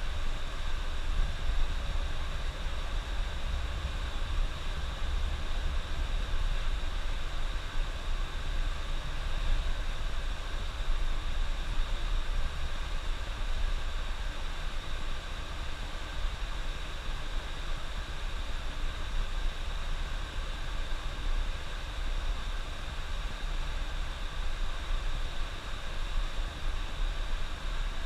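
Bus driving at a steady speed on the highway, heard from the driver's cab: a steady low rumble of engine and road with an even hiss of tyres on the road.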